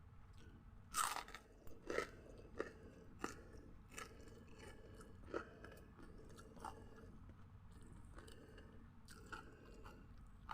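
Crunchy food being bitten and chewed close to the microphone: a loud crunching bite about a second in, followed by a string of sharper crunches that thin out into quieter chewing.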